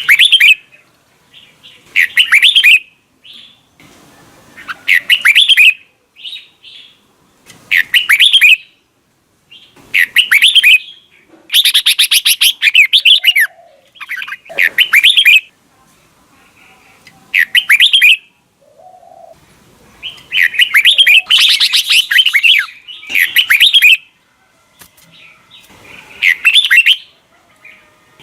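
Red-whiskered bulbul singing: loud, clear, warbled phrases of under a second, repeated every two to three seconds, with a couple of longer runs of song.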